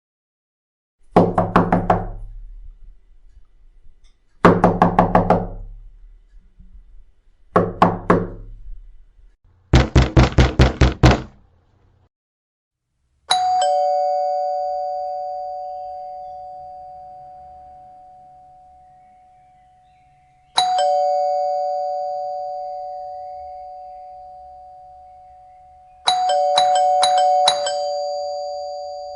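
A harsh electric buzzer sounds three times for about a second each, then in a fast run of short buzzes. Then a two-tone chime doorbell rings "ding-dong" twice, each note ringing out slowly. Near the end it is pressed four times in quick succession.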